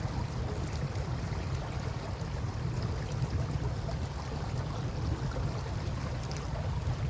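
Steady wash of river water with a low rumble, and a few faint crackles and pops from a wood campfire.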